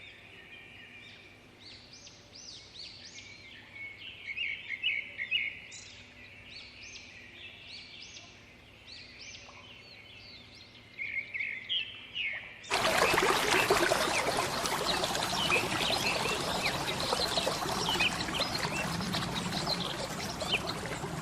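Songbirds chirping and calling with many short rising chirps. About two-thirds of the way through, a loud, steady rushing noise cuts in abruptly and carries on, with the birds still faintly heard under it.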